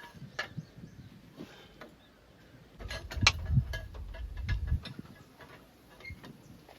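Scattered metal knocks and clanks as a stuck part of a cultivator frame is pried loose with a pipe, the loudest knock about three seconds in. A low rumble runs under the knocks for about two seconds in the middle.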